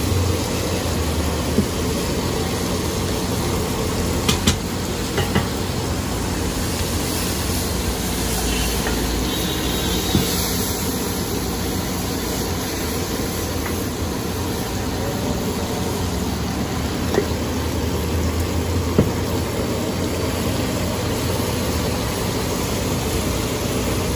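Chickpea curry sizzling on a large flat metal griddle while a metal ladle stirs and scrapes it across the hot surface. A few sharp clanks of the ladle against the griddle stand out.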